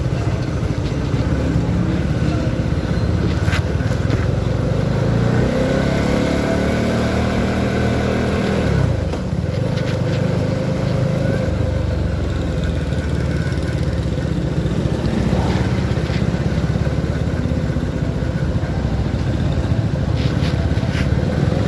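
CFMoto 300SR motorcycle's single-cylinder engine running under way over a steady rumble of wind and road noise. About five seconds in the engine note rises, then falls away sharply near nine seconds.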